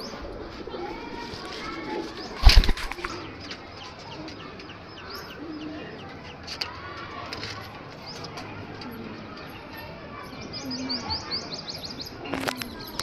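Pigeons cooing, with a loud sudden flurry of wing flapping about two and a half seconds in and another shorter one near the end. A quick run of high chirps comes just before the end.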